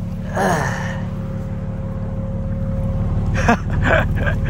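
BMW G80 M3's twin-turbo straight-six idling steadily, with a person's falling, sigh-like breath about half a second in and a couple of short sounds near the end.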